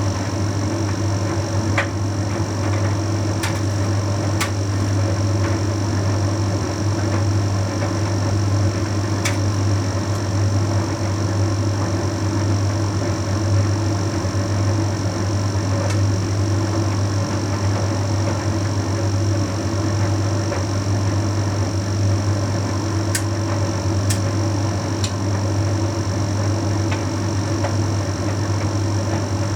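Bosch Series 6 heat pump tumble dryer running mid-cycle: a steady low hum with fainter higher steady tones, and a few brief light clicks.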